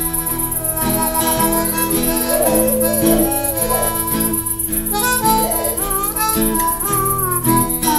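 Instrumental blues break: a harmonica plays a lead of bent, wavering notes over a steady, rhythmic chordal accompaniment.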